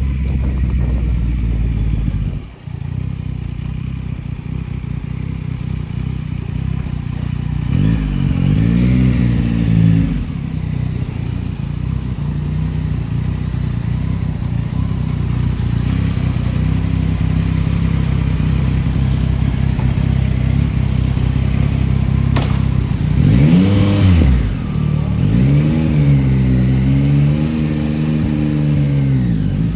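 Yamaha MT-09's inline three-cylinder engine running on the move. Its sound drops out briefly about two seconds in, then the revs rise and fall once around a third of the way through and several times near the end.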